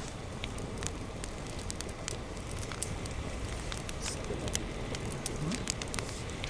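Wood campfire crackling, with frequent sharp irregular pops over a steady low rumble.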